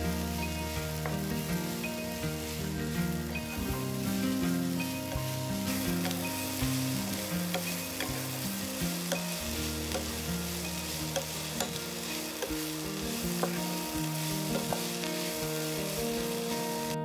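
Food sizzling as it fries in a pan: a steady crackling hiss with small scattered ticks, over soft background music.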